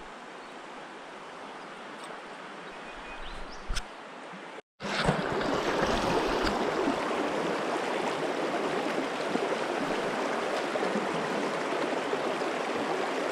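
Steady rush of river water. About a third of the way in, the sound cuts out for a moment and comes back noticeably louder.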